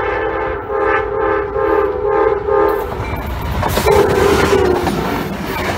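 Amtrak P42DC diesel locomotives' air horn sounding a chord in several blasts as the train approaches. About three seconds in the lead locomotives pass close by in a loud rush of engine and wheel noise, a last horn note dropping in pitch as they go past, with wheels clacking on the rails.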